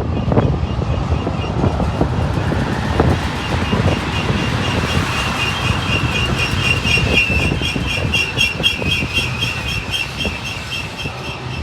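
Freight train cars rolling past on the rails: a steady rumble and clatter of wheels, mixed with wind noise. About four seconds in, a high-pitched ringing squeal starts and pulses about three times a second, then fades near the end as the train passes.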